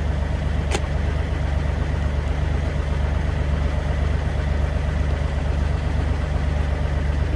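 Excavator engine idling steadily with a low drone, with a single sharp click just under a second in.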